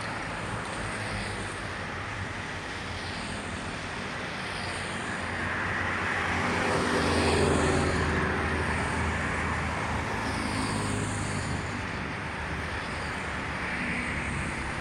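Traffic on a wet street: a vehicle passing on the wet road, swelling to its loudest about halfway through and fading again, over steady road noise.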